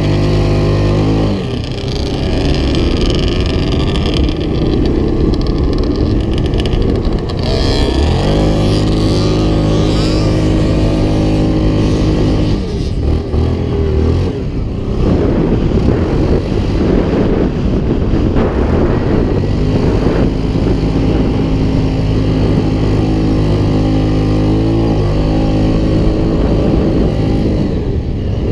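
Off-road vehicle engine running hard, its pitch climbing and dropping repeatedly with throttle and gear changes.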